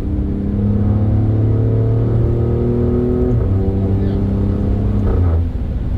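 Alfa Romeo Stelvio Quadrifoglio's twin-turbo 90-degree V6, breathing through K&N air filters, pulling hard under acceleration after a downshift. The note changes about three and a half seconds in, as at a gear change, and then pulls on.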